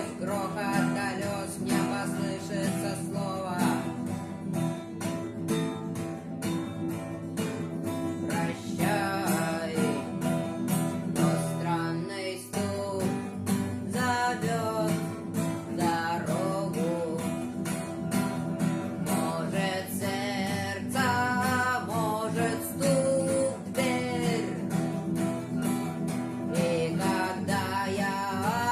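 Acoustic guitar strummed in a steady rhythm, with a wavering melody line carried over the chords.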